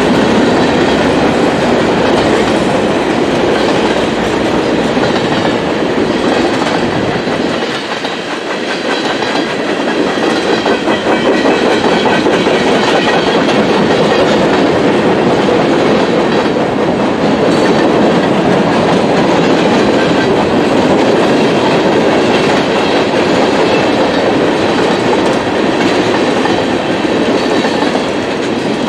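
Freight cars of a CSX manifest train rolling steadily past, their wheels clacking over the rail joints, with a brief dip in loudness about eight seconds in.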